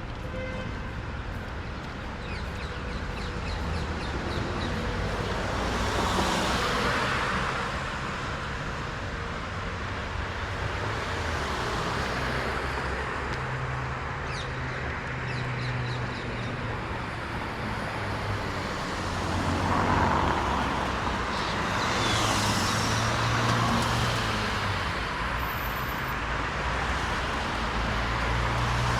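Road traffic on wet streets: a steady hum of engines with several cars passing one after another, each swelling in tyre hiss and then fading.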